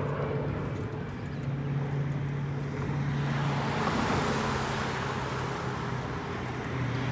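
Road traffic: a car passing, its tyre and engine noise swelling about three seconds in and then easing, over a steady low engine hum.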